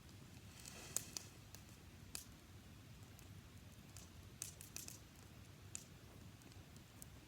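Faint campfire of dry grass crackling: sparse, irregular snaps and pops, a few in quick clusters.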